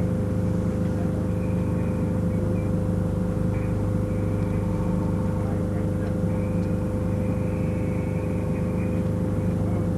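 A steady low mechanical drone with a constant hum tone that does not change.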